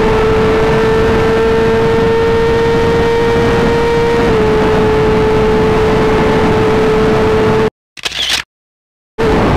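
BMW S1000RR inline-four engine with an Akrapovic exhaust running flat out near redline at close to top speed, around 299 km/h, as a steady high tone over heavy wind rush; the pitch dips slightly about four seconds in. Near the end the sound cuts out for about a second and a half.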